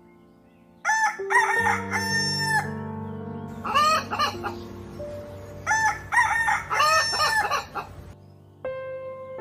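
Rooster crowing three times, each crow ending in a held note, over background music.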